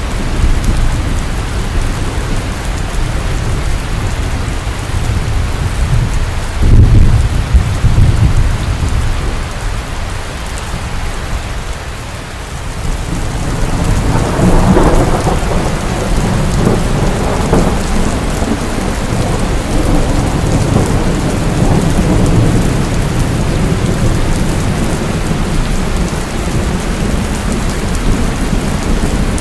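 Steady heavy rain falling, with thunder: a loud low clap about seven seconds in, then a long rolling rumble that builds from about halfway and carries on under the rain.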